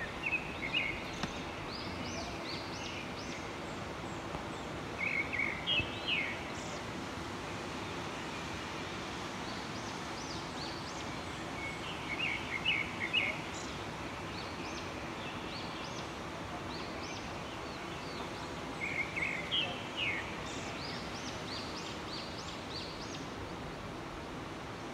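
Steady outdoor background hiss with a bird singing a short chirping phrase four times, roughly every five to seven seconds.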